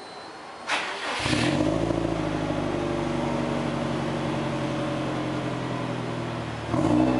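Subaru Impreza S204's turbocharged flat-four starting, heard from the exhaust: a short crank about a second in, then the engine catches and settles into a steady idle. Near the end the first blip of the throttle raises the revs.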